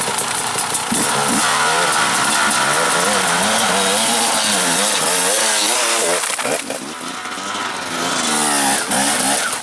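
Dirt bike engines revving up and down in quick throttle changes, with a brief drop in revs about two-thirds of the way through before picking up again.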